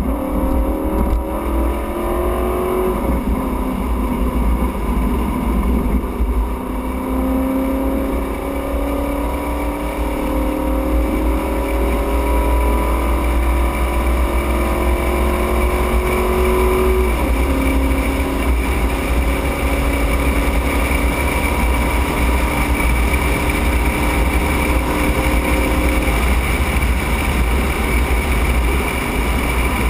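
Dodge Charger Daytona's V8 engine under hard acceleration on a race track, heard from the cabin. Its pitch climbs and drops at a gear change about three seconds in, then climbs slowly for a long stretch before a second upshift about halfway through, and then holds nearly steady over a constant low rumble.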